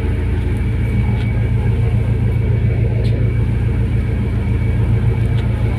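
Fast passenger ferry's engines running in a steady low drone, with a faint steady whine above it.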